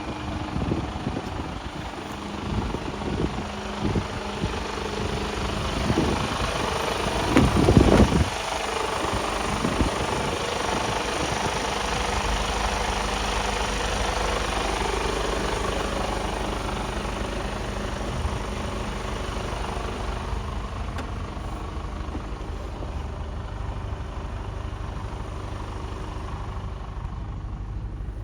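Mercedes-Benz Actros 1842 truck's diesel engine idling with a steady low rumble, after several irregular knocks and a loud short burst about eight seconds in.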